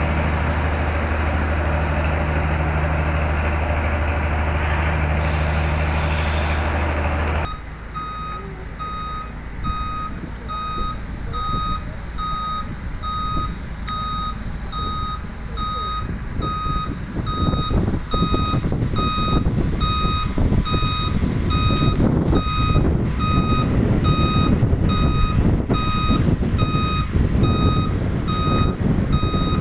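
Heavy truck running with a steady low engine drone. About seven seconds in, this changes abruptly to the truck's reversing alarm beeping steadily, about one and a half beeps a second, over engine rumble that grows louder later on.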